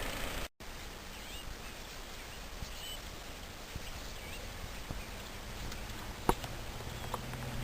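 Faint outdoor background noise with a few soft bird chirps in the first few seconds and a single click about six seconds in.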